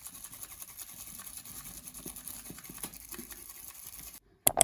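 Soft, irregular scratching and rustling close to the microphone: small objects being handled. It cuts out a little after four seconds, followed by two sharp clicks near the end.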